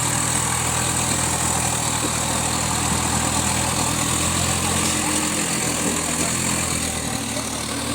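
Power 855 tractor's engine idling steadily.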